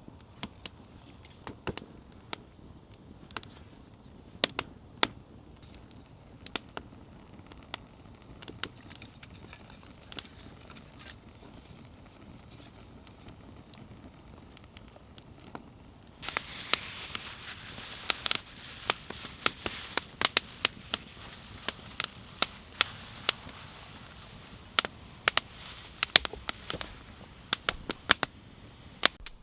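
Wood campfire crackling, with irregular sharp pops. About 16 seconds in, it gets suddenly louder, with a steady hiss and much denser crackling.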